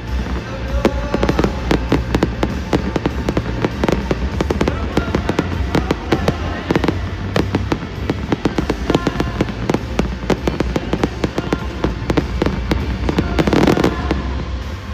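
Fireworks going off in a rapid, irregular run of bangs and crackles, with a louder burst near the end, over background music and crowd noise.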